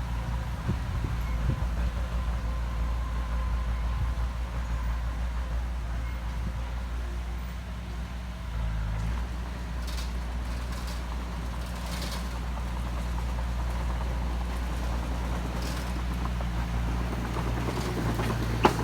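Diesel engine of heavy earthmoving machinery running steadily, with its pitch shifting slightly about halfway through. There are a few faint clicks, and a sharp click near the end.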